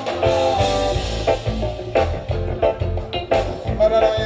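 Live band playing an instrumental passage: bass and drums keeping a steady beat under a pitched lead instrument, with no singing.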